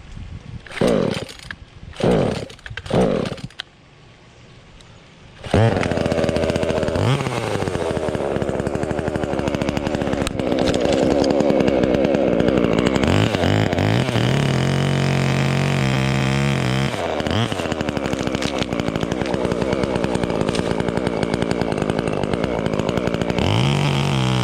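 Gas chainsaw pull-started with three short cord pulls, catching about five seconds in, then running loud and cutting into an oak limb, its engine note dropping back to a steadier lower pitch a couple of times.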